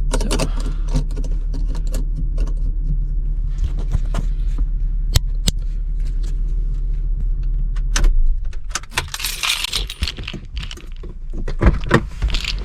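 SUV engine idling with scattered clicks and keys jangling; the engine stops about eight seconds in, followed by a brief hissing rustle and more clicks and key jingles.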